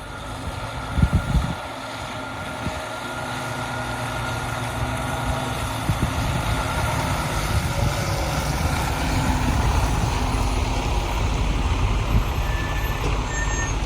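A motor vehicle running: a low engine and road rumble that grows steadily louder, with a few loud thumps about a second in.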